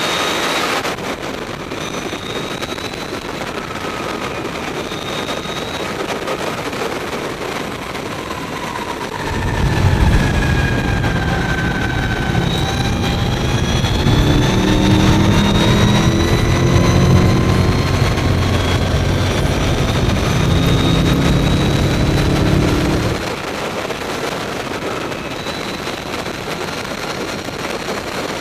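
Mavizen TTX02 electric racing motorcycle at speed, its motor whining in high tones that rise and fall as it accelerates and slows, over heavy wind rush. From about nine seconds in to about twenty-three seconds a louder low rumble joins, then drops away suddenly.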